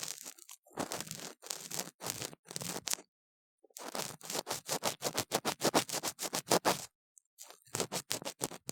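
Ear pick scraping inside a silicone ear model, picked up close by the microphone: a run of short, scratchy strokes. The strokes are spaced a few tenths of a second apart at first, then come quickly, about five a second, after a brief pause.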